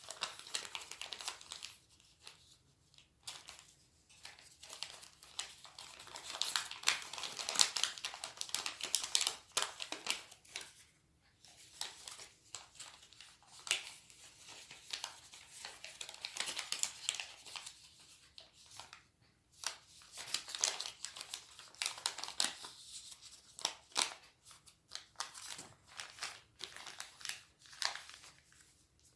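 Sheet of origami paper being handled and folded by hand: crisp rustling and crinkling with short creasing clicks, in irregular bursts with a few brief pauses.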